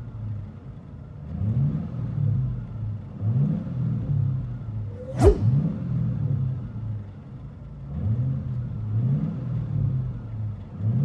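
2008 Ford Mustang GT's 4.6-litre V8 accelerating through a performance true-dual cat-back exhaust with an X pipe and Street Demon mufflers. The deep exhaust note climbs in pitch again and again, like revs rising through the gears. A sharp whoosh cuts across it about five seconds in.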